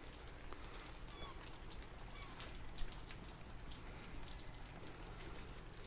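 Steady rain falling, with scattered drops tapping on the awning overhead and one louder tap about three seconds in.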